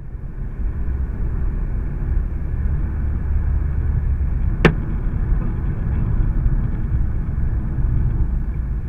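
Steady low road rumble of a car heard from inside the cabin. About halfway through, a single sharp crack: an egg dropped by a magpie smashing onto the windscreen.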